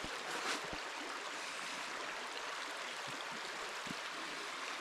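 Small mountain stream running steadily, an even rushing of water. A brief louder noise comes about half a second in, and a few faint low thumps follow.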